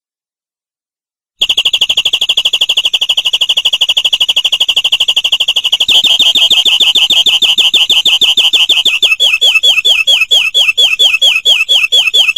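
Domestic canary singing, starting after about a second and a half of silence: a rapid trill of fast repeated high notes that switches to a different repeated note about halfway through, then to slower, downward-sweeping notes near the end.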